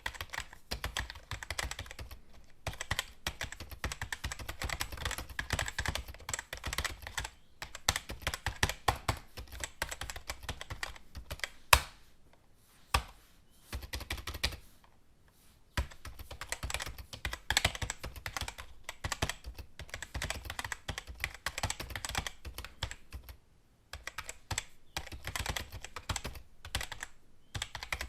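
Typing on a computer keyboard: a quick, irregular run of key clicks that thins out to a few scattered keystrokes for a few seconds about halfway through, with one sharper, louder key strike just before that lull.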